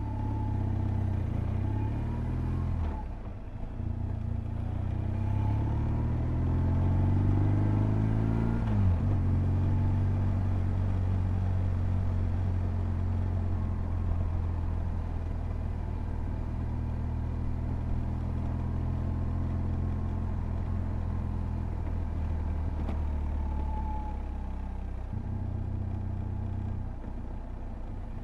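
2007 BMW R1200GS's boxer-twin engine under way. The revs dip briefly about three seconds in, then climb for several seconds and drop sharply about nine seconds in, as at an upshift. After that the engine runs steadily at cruising revs, with a short dip near the end.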